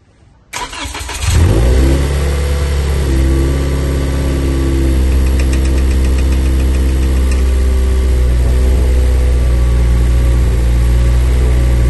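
Toyota Corolla's M20A-FKS 2.0-litre inline-four started up on a newly fitted Camry throttle body and a freshly flashed tune. About half a second in, the starter cranks briefly, the engine catches and flares up, then settles within a couple of seconds into a steady, loud idle.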